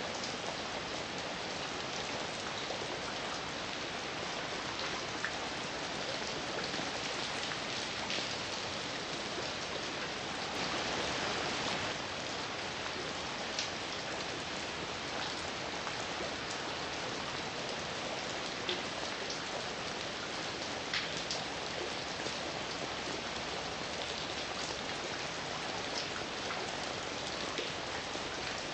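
Heavy rain falling steadily, a dense hiss with scattered louder drops ticking on a surface, briefly heavier about ten seconds in.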